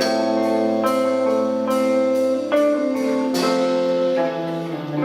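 Live rock band playing: held, ringing guitar chords over regular cymbal strikes, with a change of chord about halfway through.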